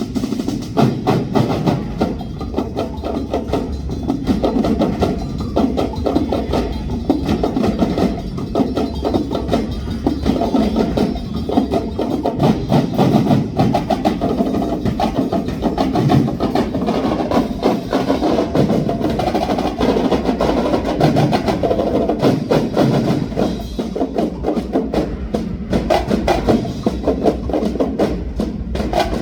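A festival drum ensemble playing a fast, continuous drum beat, a dense run of rapid strokes with no break.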